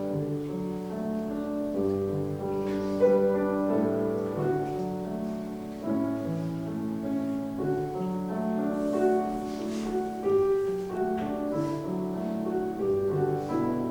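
Soft instrumental music on a keyboard: slow, held chords that change every second or two.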